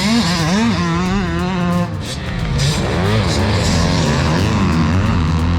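Several motocross dirt bike engines revving up and down over one another as the bikes are ridden around the track, their pitch rising and falling over and over.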